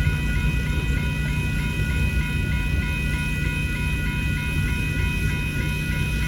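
Union Pacific manifest freight train's cars rolling through a grade crossing, a steady low rumble, while the crossing signal bells ring with rapid, even strokes. A generator hums steadily underneath.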